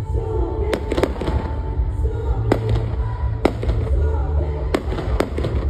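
Fireworks going off: about seven sharp bangs at uneven intervals, over a steady low rumble, with music playing underneath.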